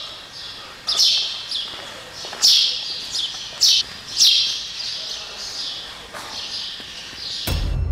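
A small bird chirping over and over in short, sharp calls that echo off the stone walls around it. A low steady drone comes in just before the end.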